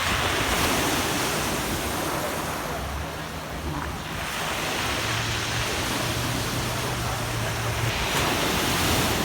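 Sea surf washing onto a beach, the noise swelling and easing, with wind on the microphone and a low steady hum from about five to eight seconds in.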